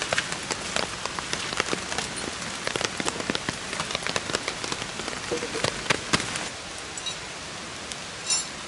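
Wood campfire crackling and popping in many sharp, irregular snaps over a steady hiss; the snaps thin out about six and a half seconds in.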